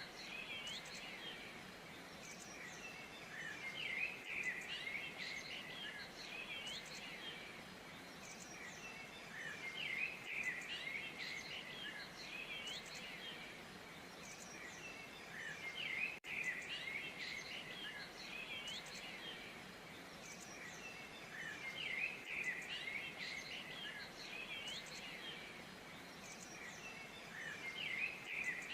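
Many small birds chirping and twittering together in a dense, overlapping chorus of short high calls, swelling louder about every six seconds.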